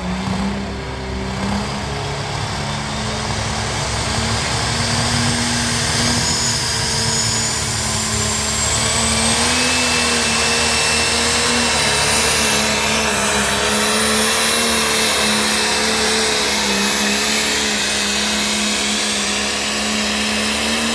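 Pulling tractor's engine at full throttle as it drags the weight sled down the track, a loud steady run with a high whine that climbs in pitch. The sound drops off sharply at the very end as the engine is backed off.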